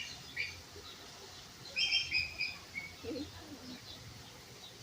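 Small birds chirping outdoors in short high notes, with a quick run of several chirps about two seconds in.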